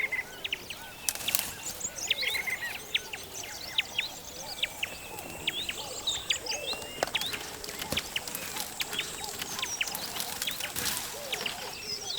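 Many birds calling at once: a dense chorus of short, sharp chirps and quick rising whistles.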